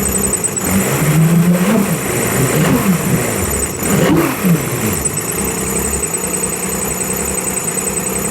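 1997 Evinrude 150 hp Ficht direct-injection two-stroke V6 outboard running. Its throttle is blipped several times, the engine revving up and back down between about one and five seconds in, then it settles to a steady idle.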